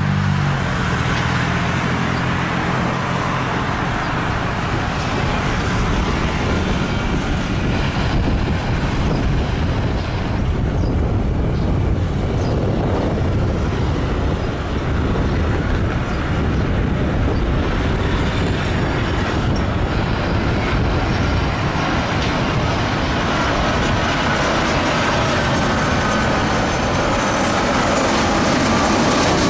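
Jet airliner engines, a steady loud roar with a thin rising whine near the end.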